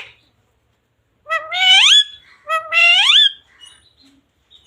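Pet parrot giving two loud calls about a second apart, each rising in pitch.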